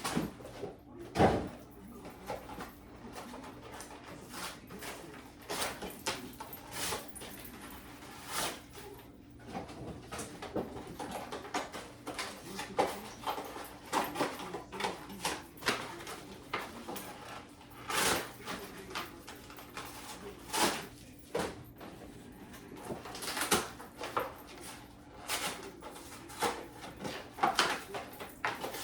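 Scattered knocks and clicks of things being handled, several dozen short sharp sounds at irregular intervals.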